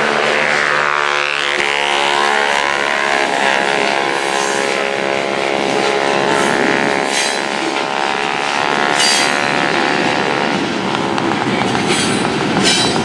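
Freight train passing on the rails, with a long pitched tone that falls in pitch over the first couple of seconds, then holds steady and stops about ten and a half seconds in. Under it runs a steady rail rumble with a few sharp clanks.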